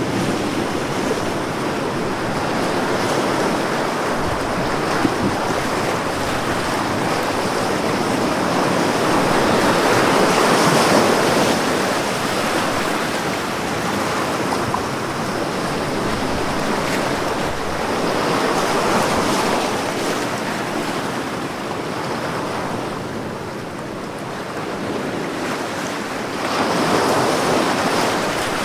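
Ocean waves breaking on a beach, a continuous surf wash that swells and recedes in slow surges every several seconds.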